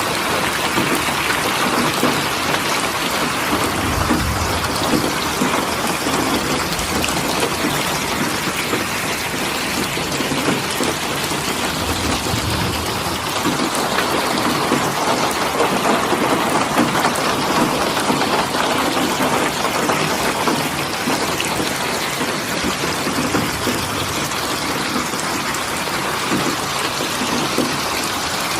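Steady, heavy rainfall, an even dense patter, with a low rumble about four seconds in and again around twelve seconds.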